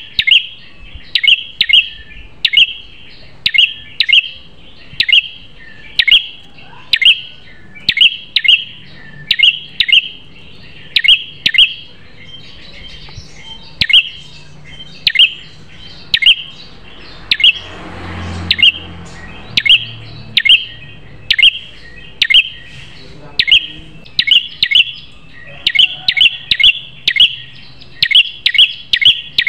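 Prenjak kepala merah, a small songbird, calling a long series of sharp, high, loud chirps, one to two a second and often in quick pairs or triplets, with a short lull about halfway through.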